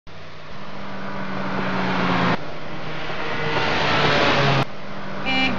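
Car engine running as the car drives along, a steady drone that grows slightly louder, breaking off abruptly and resuming about two and a half and four and a half seconds in.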